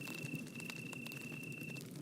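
Wood fire crackling, with irregular sharp pops and snaps over a low rustling rumble. A steady thin high-pitched tone with a couple of brief gaps runs alongside and stops shortly before the end.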